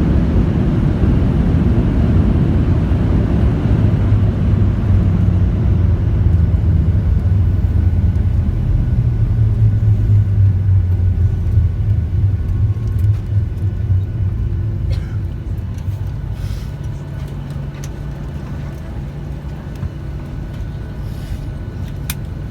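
Airliner cabin during the landing roll: a loud rumble of wheels and engines, with a deep hum that swells midway and then eases after about fifteen seconds to a quieter, steady hum as the aircraft slows. A few faint clicks near the end.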